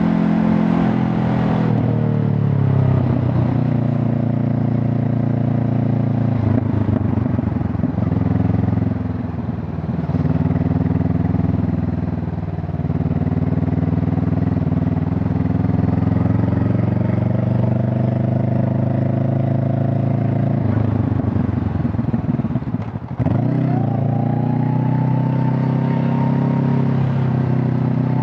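Honda CB500 Hornet's parallel-twin engine and exhaust heard while riding. The revs fall at first, dip briefly twice, hold steady for a long stretch, then cut off sharply for a moment about five seconds before the end and climb steadily as the bike accelerates.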